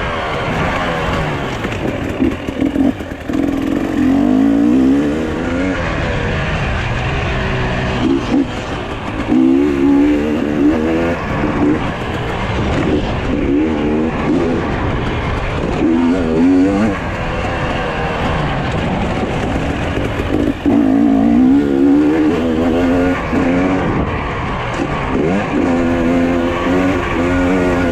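Off-road motorcycle engines revving hard and easing off again and again, the pitch rising and falling every second or two as the bikes ride the motocross track.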